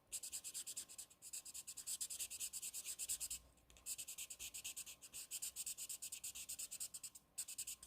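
Alcohol marker tip rubbing on paper in rapid short strokes, several a second, with two brief pauses, as colour is blended into a stamped flower.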